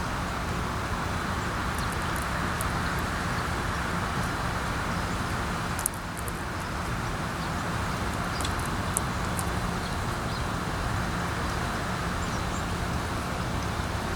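Steady outdoor wind noise with a low rumble, broken by a few faint, short high ticks.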